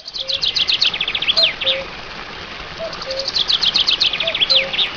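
Birdsong: two bursts of rapid, falling chirps, each lasting about a second and a half with a pause between, over a steady hiss of background ambience. A soft low note repeats underneath.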